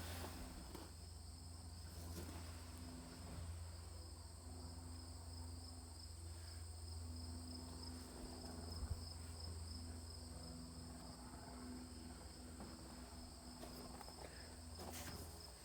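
Crickets chirring in a steady, faint high chorus, with a low steady hum underneath.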